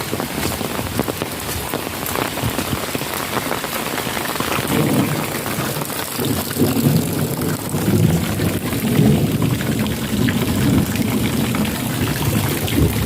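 Heavy rain pattering steadily on surfaces and puddles, with a dense spatter of individual drops. From about five seconds in, a deeper rumble rises under the rain.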